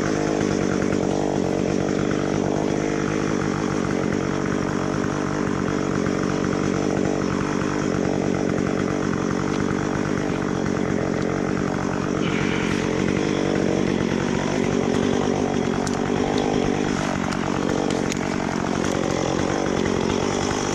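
Chainsaw running steadily at high speed, cutting through eucalyptus wood.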